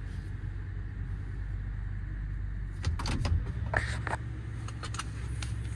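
Ford F-550's V10 engine running with a steady low hum, heard from inside the cab. From about three seconds in, several short clicks and knocks come over it.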